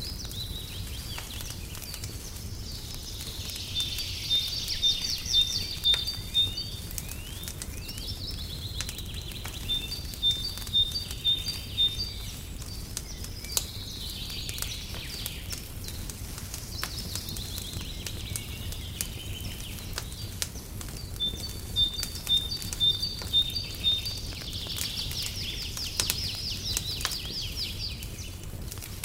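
Birds singing, with phrases of short repeated notes and trills that come back several times, over scattered crackles and pops of a wood fire and a steady low rumble.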